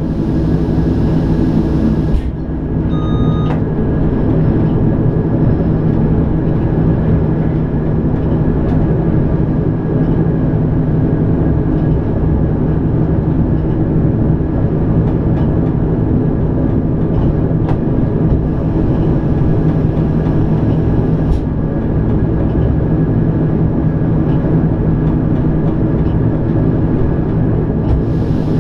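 Electric rack-railway (cog) train heard from inside the driver's cab, running steadily through a tunnel. A constant hum of the drive over a dense rumble of running noise, with a short beep about three seconds in.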